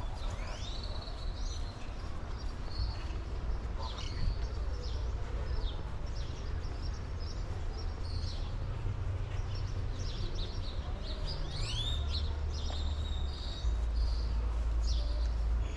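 Several birds chirping and calling repeatedly, short quick rising and falling notes scattered throughout, with a busier cluster of calls about eleven to twelve seconds in, over a steady low rumble.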